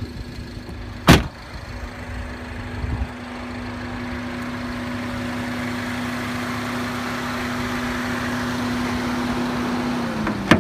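A sharp latch click about a second in and a smaller knock near three seconds as the hood is released and opened, over the steady hum of a 2015 MINI Cooper S Countryman's 1.6-litre turbocharged inline-four idling, which grows louder after the knock.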